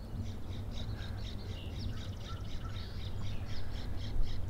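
A small bird singing, a rapid run of short, high chirping notes, some of them gliding, over a steady low background rumble.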